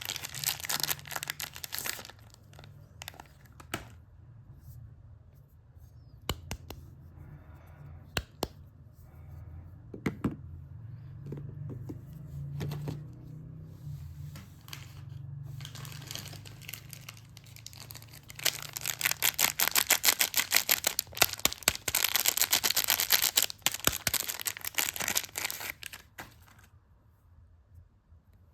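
Soap packaging being crinkled and torn open close to the microphone. There is dense crackling for the first couple of seconds, then scattered sharp taps and clicks, then a long stretch of crackling again in the second half.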